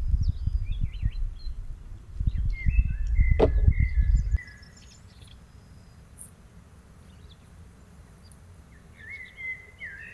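Small songbirds chirping and warbling, with several birds calling over one another. Under them a loud, irregular low rumble stops abruptly about four seconds in, leaving only the birdsong.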